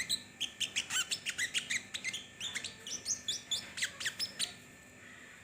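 A sogon, a small songbird, singing a fast, busy string of short high chirps and quick whistled notes, several a second, stopping about four and a half seconds in.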